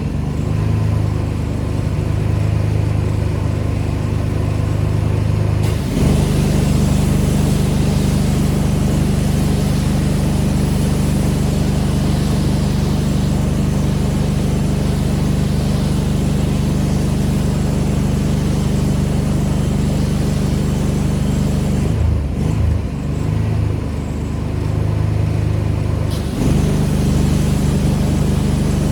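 Pressure washer's engine running steadily, with the hiss of the water spray. The engine note shifts about six seconds in as spraying starts. Spraying stops for a few seconds near the end, then resumes.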